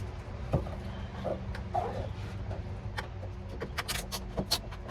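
Old asphalt sound-deadening mat being pried and peeled off a car's sheet-metal floor, a scattering of small ticks giving way to a run of sharp crackles and snaps in the second half, over a steady low hum.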